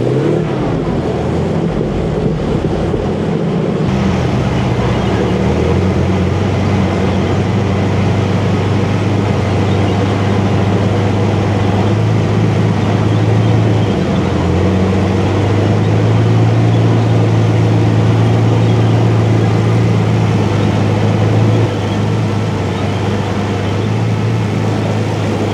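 Cromwell tank's 27-litre Rolls-Royce Meteor V12 petrol engine running under way, its note shifting up and down several times as the throttle and speed change.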